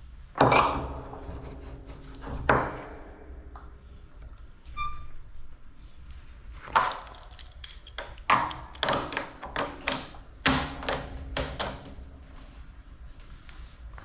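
Metal barn fittings clanking and knocking: a run of sharp clanks, some ringing briefly, coming thickest between about seven and twelve seconds in.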